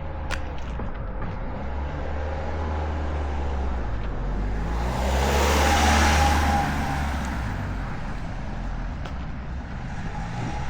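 Road traffic rumbling steadily, with one vehicle passing close: its noise swells to a peak about halfway through and then fades.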